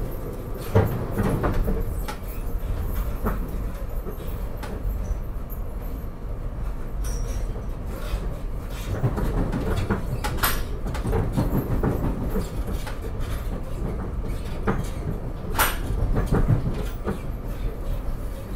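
Moving SEPTA Regional Rail commuter train heard from inside the passenger car: a steady low rumble of wheels on track, with a few sharp knocks and clicks scattered through.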